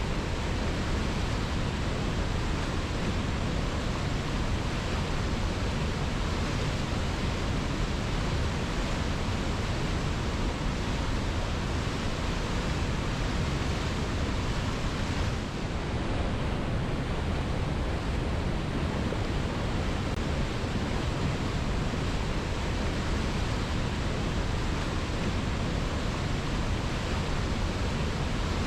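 Waterfall: a steady, dense rush of falling water on rocks, with a brief dip in level about halfway through.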